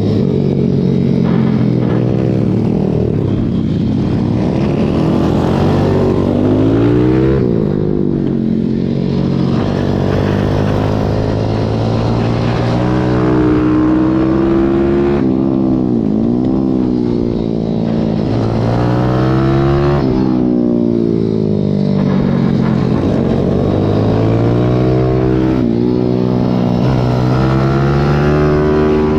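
Pit bike's small single-cylinder engine heard onboard at racing pace, its pitch climbing under acceleration and dropping away again, over and over every few seconds.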